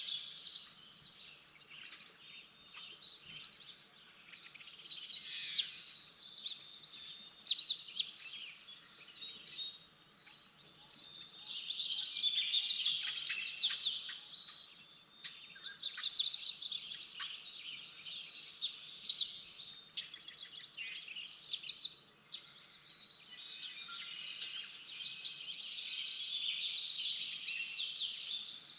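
Small birds chirping and twittering rapidly, in repeated bursts of a few seconds each, several birds calling at once.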